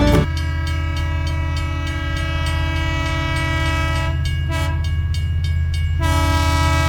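Train horn held steadily over the low, rhythmic rumble of a running train. The horn fades about four seconds in and sounds again, louder, near the end.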